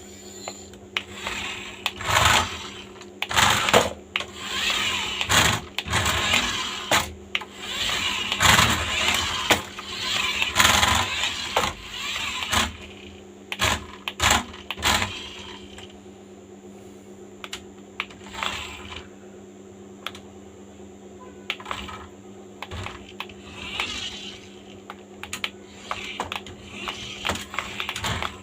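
Irregular clicks and rattles of a plastic toy car being handled, in bursts, over a steady low hum.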